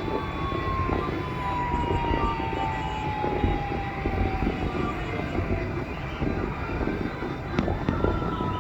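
Aerial fireworks display: a dense, continuous crackling rumble with a few sharp bangs near the end. A long, thin tone slides slowly downward through it for most of the time.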